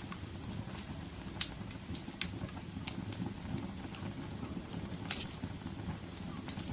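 Wood fire burning, a steady low rumble of flames with sharp crackles and pops scattered through, the loudest about a second and a half in and another about five seconds in.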